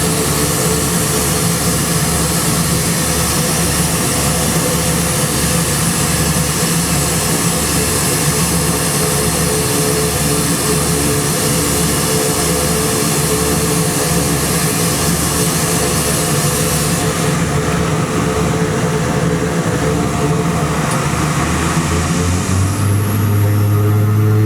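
Dornier Do-228's twin turboprop engines running with a steady whine, a high hiss and a regular pulsing beat. Near the end the hiss drops away and a strong low hum comes up.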